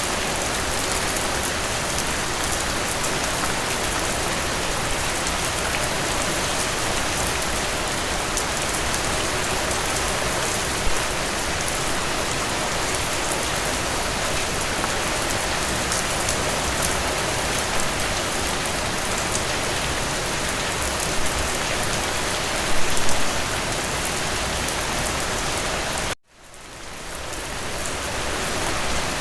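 Steady rain falling on a surface, with a few louder drops standing out now and then. About 26 seconds in, the rain cuts out abruptly and fades back in over a few seconds, as at a loop or edit point in the recording.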